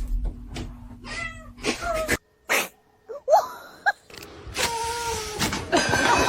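Domestic cats meowing several times: short meows that rise and fall, and one longer drawn-out meow about five seconds in.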